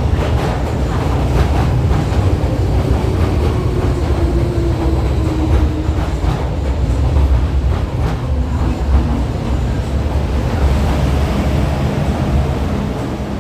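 MTR Kwun Tong Line M-Train rumbling steadily, with a faint motor whine that slides in pitch a few seconds in.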